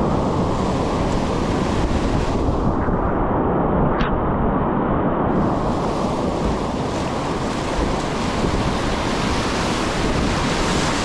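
Rushing whitewater of river rapids, a steady loud roar of moving water, with wind buffeting the microphone.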